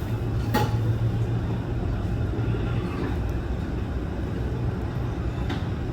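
Steady low rumble of an Airbus A321 airliner's jet engines, with one sharp click about half a second in.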